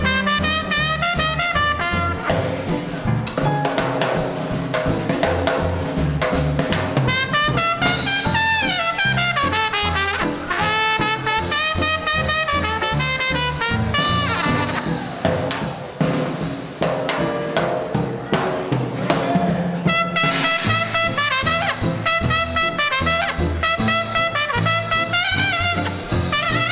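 Small swing combo playing an instrumental chorus live: trumpet carrying the lead line over a walking bass and drum kit.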